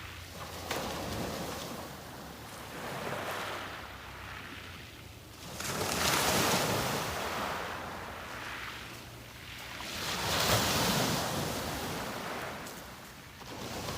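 Waves breaking on the beach and washing up the shore in repeated surges every three to four seconds. The two strongest surges come about six and about ten and a half seconds in.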